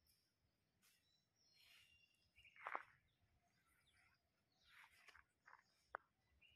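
Near silence with faint, scattered bird chirps and calls, including one louder falling call a little under three seconds in, and a single sharp click near the end.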